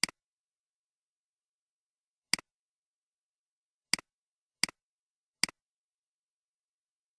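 Computer mouse clicks: five sharp clicks, each a press followed by a quieter release, spaced irregularly with dead silence between.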